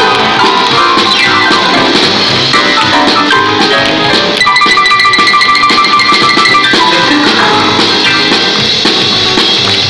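Band music playing an instrumental passage of a song with no singing. A high note is held for about two seconds near the middle.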